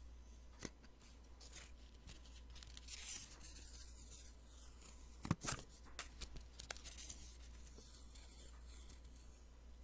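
Post-it sticky notes being peeled away and handled: soft papery rustles and a few sharp ticks and snaps of the adhesive letting go, the loudest about five seconds in.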